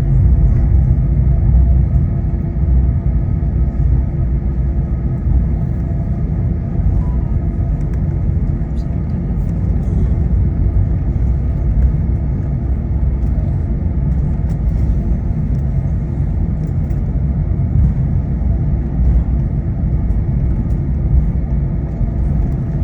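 Steady low rumble inside an Airbus A321's cabin on the ground after landing, with a constant hum running under it.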